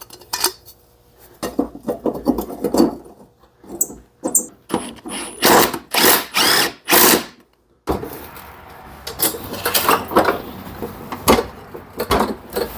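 Irregular clanks, knocks and scrapes of hands and tools working on an old push mower, with a brief break just before the last third.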